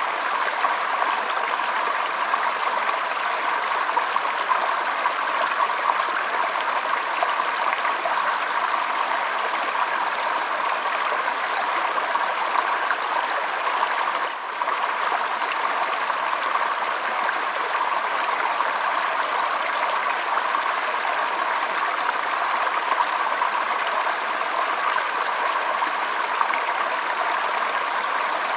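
Running water flowing steadily, an even rushing and trickling like a stream, with a brief dip about halfway through.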